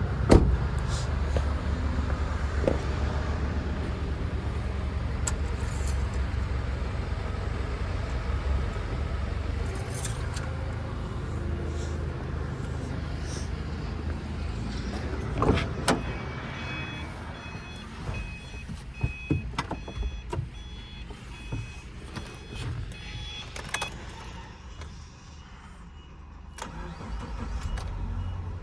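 Subaru EJ204 2.0-litre flat-four engine running in a Subaru Exiga, a strong low rumble for the first half, then quieter. In the quieter half there are scattered clicks and a repeating electronic beep for several seconds.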